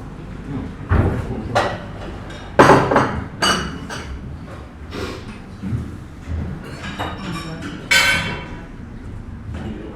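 Crockery and cutlery clattering and clinking in a busy breakfast room: a string of sharp knocks and clinks, the loudest a little under three seconds in, and a ringing clink of china or glass about eight seconds in.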